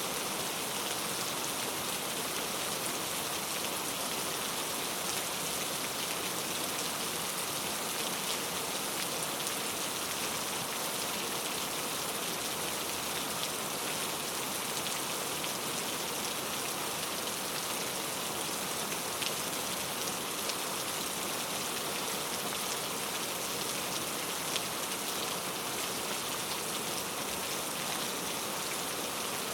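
Steady rain falling on forest foliage, an even hiss with many small drop patters.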